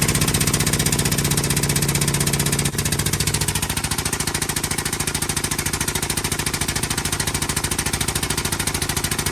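Pneumatic air-over-hydraulic 6-ton jack running on shop air, its air motor pumping in a rapid, even chatter as it lifts a loaded dump truck. The level drops slightly about two and a half seconds in.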